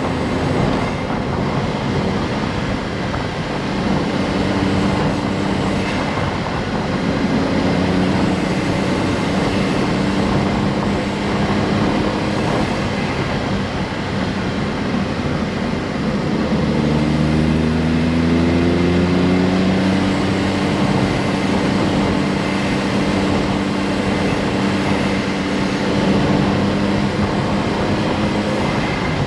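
Honda S660's small turbocharged three-cylinder engine running under way with tyre and road rumble, holding a steady drone. About seventeen seconds in, its pitch climbs for a few seconds as the car accelerates, then settles steady again.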